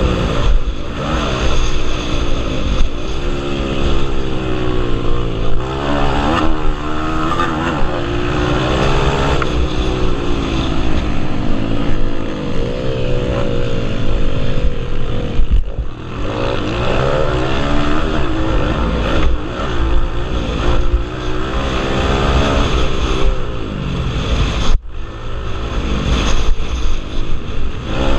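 Several pit bike engines racing at once, each revving up and falling back as the riders work the throttle and gears, their pitches overlapping and rising and falling.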